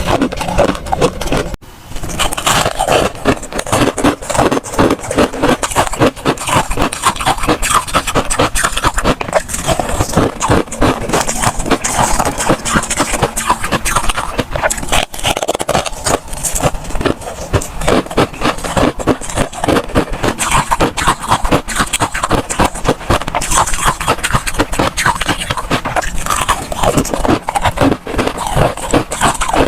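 Freezer frost crunching: a dense run of sharp, rapid crackles, with a brief break about two seconds in.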